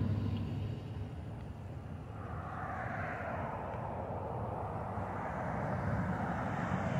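Road traffic passing: a steady rushing noise, with one vehicle swelling past a couple of seconds in.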